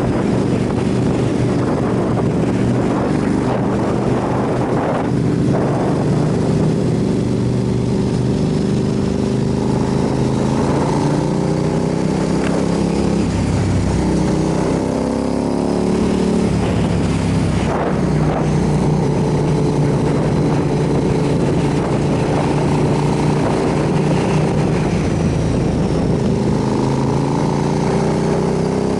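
Motorcycle engine running under way, its pitch rising and falling several times as the rider accelerates and eases off.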